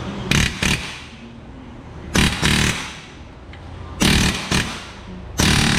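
Impact driver hammering in short bursts, four or five of them with pauses between, on a control-arm bolt rusted into its bushing that will not break loose.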